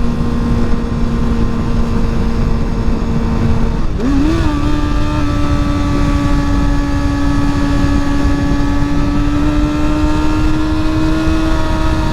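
Honda CBR sport-bike engine running steadily under way. About four seconds in its note wavers briefly and then holds at a higher pitch as the revs come up, over steady wind rush on the rider's microphone.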